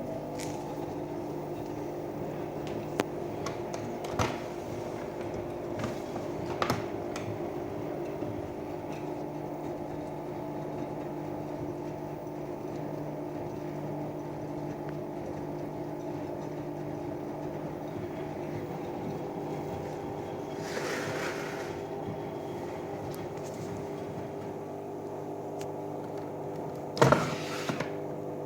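Front-loading washing machine running mid-cycle: a steady motor hum with a few sharp clicks, a short hiss about two-thirds of the way through, and a cluster of loud knocks near the end.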